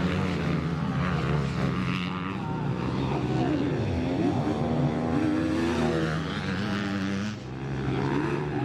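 Several motocross bike engines running and revving at once, their pitches rising and falling over one another.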